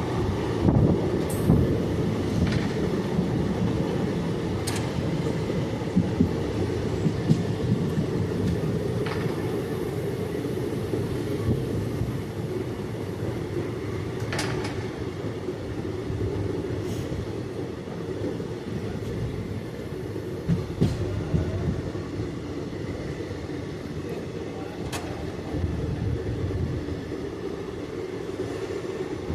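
Passenger train running along the track, heard from aboard: a steady rumble of wheels on rails with a sharp click now and then.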